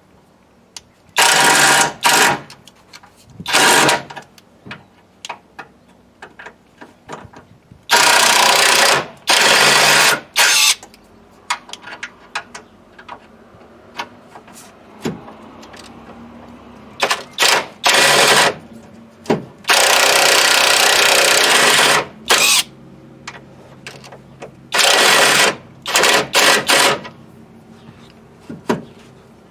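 Power impact wrench rattling in about a dozen short bursts, each half a second to two seconds long, undoing bolts.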